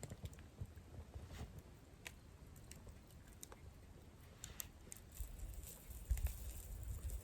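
Wood campfire crackling, with sparse irregular pops and snaps, and a low rumble coming in during the second half.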